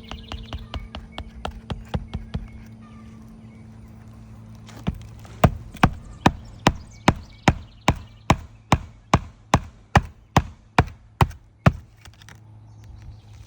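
Hammer driving roofing nails through asphalt shingles: a few seconds of light, quick taps, then about fifteen hard, evenly spaced blows at roughly two and a half a second.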